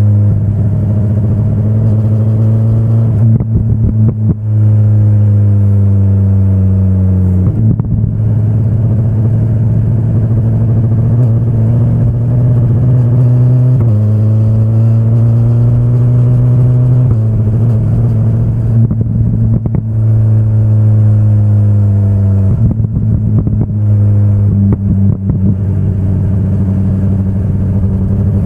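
BMW S1000RR sportbike's inline-four engine running under way, its note holding fairly steady and then jumping sharply in pitch four times as the gears change.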